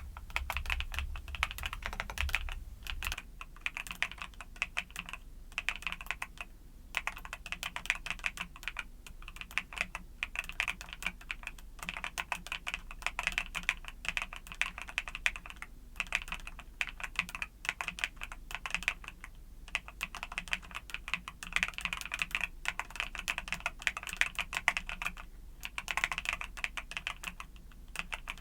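Mechanical keyboard with YUNZII Cocoa Cream switches being typed on in quick, continuous runs of key clicks, with brief pauses every few seconds.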